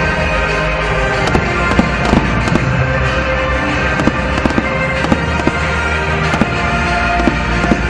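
Aerial fireworks bursting with sharp bangs about once or twice a second, over music playing steadily.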